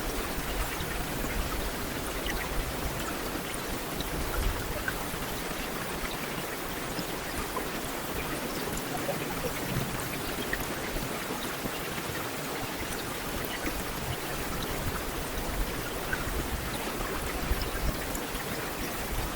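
Heavy rain falling steadily on a hard surface, a dense even hiss with many small scattered drop impacts.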